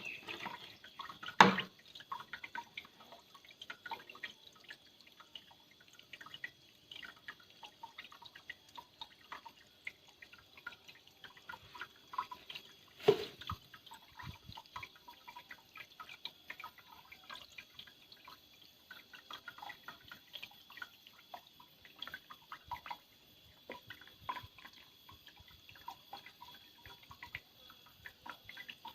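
Water dripping and trickling from a small homemade waterfall: many small, irregular drips, with two louder knocks, one about a second and a half in and one about thirteen seconds in.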